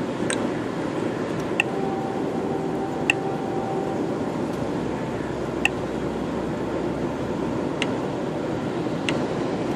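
Steady engine and road noise inside a moving truck's cab, with a handful of sharp ticks at uneven intervals.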